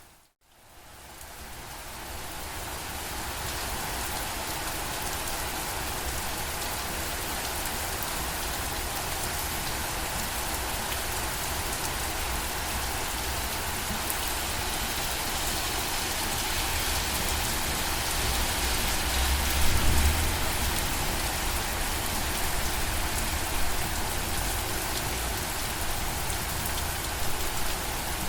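Steady rain falling on surfaces, a dense even hiss with scattered drops. It drops out to silence just after the start and fades back in over a few seconds. A brief low rumble comes about twenty seconds in.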